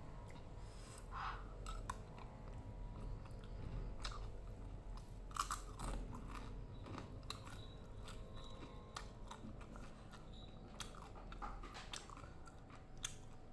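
A person chewing and biting crunchy rujak, with irregular crisp crunches scattered throughout.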